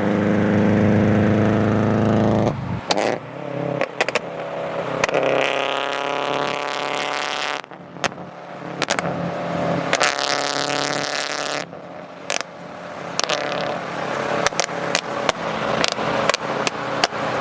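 Car engines in several short separate takes: a steady engine note at first, then two engine notes that rise as the cars accelerate, with scattered clicks and knocks near the end.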